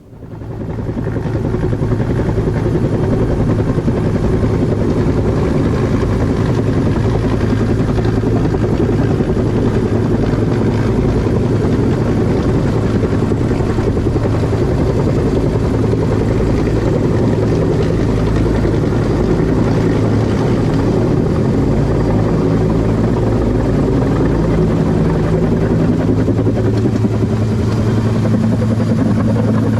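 Huey helicopter running, a loud steady drone of rotor and turbine; it fades up over the first second or so, then holds level.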